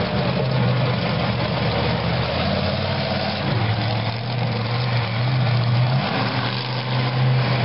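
Monster truck engine running at a steady low idle, its pitch holding nearly level.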